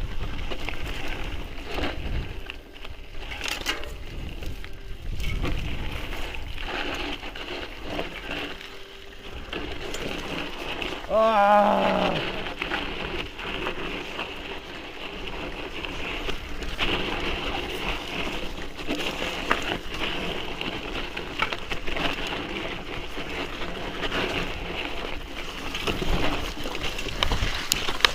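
Mountain bike riding a rough downhill trail: tyre and wind noise with frequent knocks and rattles from the bike. About eleven seconds in, a rider gives a short wavering cry.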